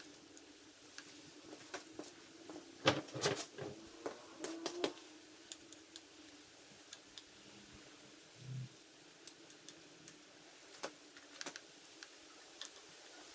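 Tools and parts being handled while handlebars are fitted to a motorcycle: a cluster of sharp clicks and knocks about three to five seconds in, then a single dull thump, over a faint steady hum.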